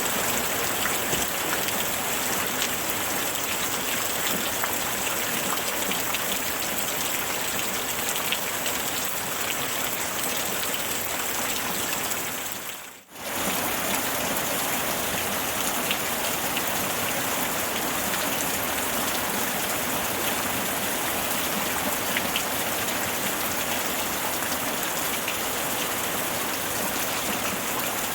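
Steady rain falling, a dense hiss with many fine drop ticks. About halfway through it fades out almost to silence for a moment, then comes straight back.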